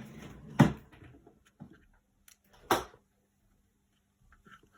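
Two sharp knocks about two seconds apart, with a few faint taps between them, from craft materials such as a glue bottle being handled on a tabletop.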